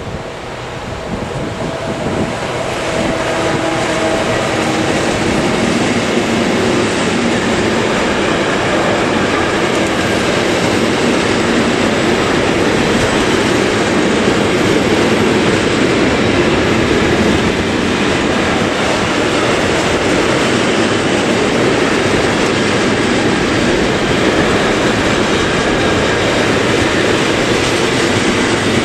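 Electric locomotive hauling an intermodal container freight train past at speed: the rolling rumble grows over the first few seconds as it approaches, then holds steady as the wagons' wheels run past on the rails. A few brief steady tones sound early on as the locomotive passes.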